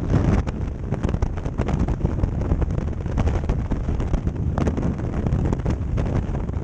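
Heavy wind buffeting the microphone: a steady low rumble crowded with crackles.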